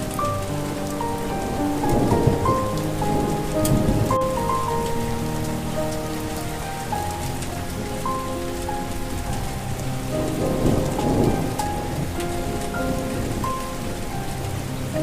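Steady rain falling, with thunder rumbling twice, about two seconds in and again around ten seconds in, under a soft melody of slow, sustained notes.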